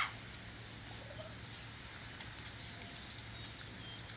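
Quiet outdoor ambience: a low steady hum under a faint even hiss, with a few short, faint high chirps.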